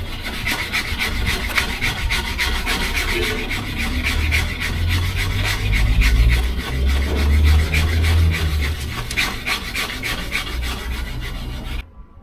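Sandpaper rubbed by hand over a surface in quick repeated scraping strokes, stopping abruptly near the end.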